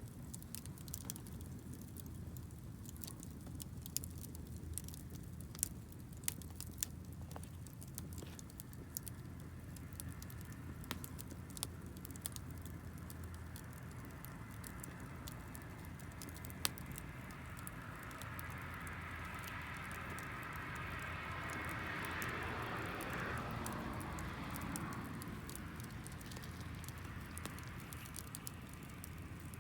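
Campfire of damp firewood burning, with scattered sharp crackles and pops. Partway through, a louder rushing sound swells for several seconds and fades.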